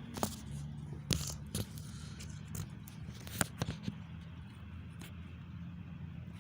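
Several sharp clicks and light knocks, irregularly spaced, over a steady low hum.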